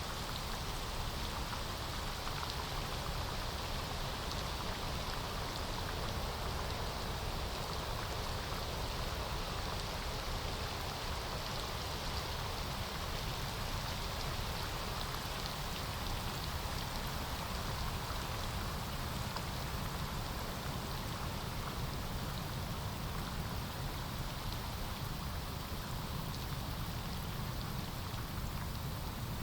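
Steady rain falling on forest foliage, an even hiss of many raindrops with faint scattered drop ticks.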